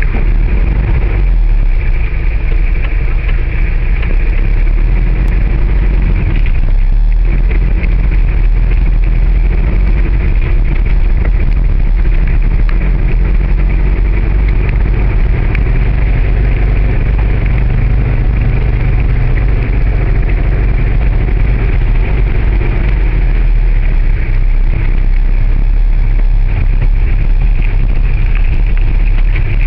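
The air-cooled flat-four engine of a 1974 Volkswagen Beetle 1500 running steadily on the move, heard from inside the cabin along with road noise. The drone dips briefly about one second in and again about seven seconds in.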